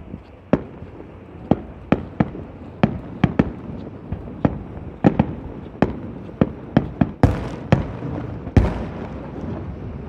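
Fireworks display: a quick, irregular string of sharp bangs from bursting shells, with two heavier booms in the second half that trail off.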